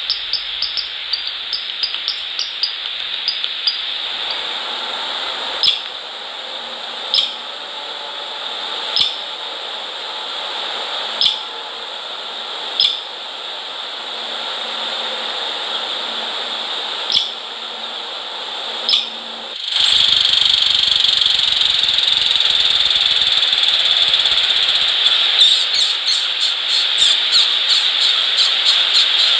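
Small birds calling at a feeder over a steady outdoor hiss. There are rapid runs of high chirps at the start and again near the end, with single short chirps every one to two seconds in between. About two-thirds of the way through, the hiss suddenly gets louder.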